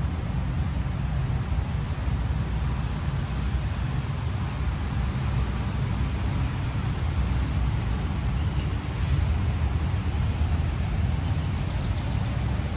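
Outdoor ambience: a steady low rumble, with a few faint, short high chirps.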